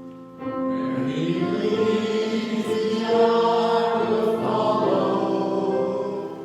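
Choir singing slowly over sustained keyboard chords, a closing sung response; the singing drops away briefly near the end.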